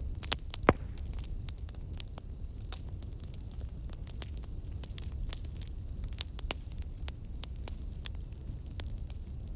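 Wood fire burning in a fireplace: irregular crackles and pops over a low rumble of flame, with one sharp, louder pop just under a second in.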